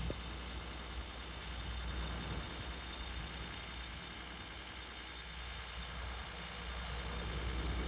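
Hyundai excavator's diesel engine running steadily with a low drone, growing louder near the end.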